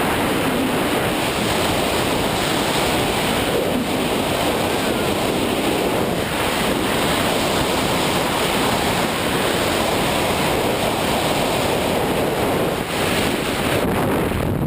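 Steady, loud rushing noise without a clear pitch, like wind buffeting the microphone or surf.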